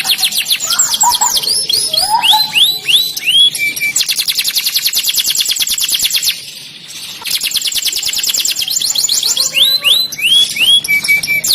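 Domestic canary singing: fast rolling trills of rapidly repeated high notes alternating with slower runs of down-sweeping whistled notes. The song breaks off briefly about six seconds in, then resumes.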